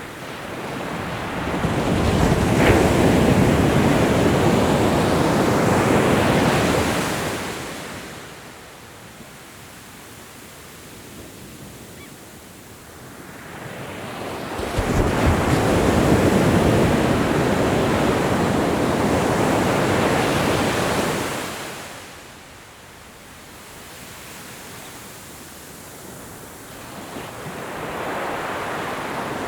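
Ocean waves breaking and washing in: two long surges, each swelling over a couple of seconds and holding for about five seconds before fading into a quieter lull, with a third building near the end.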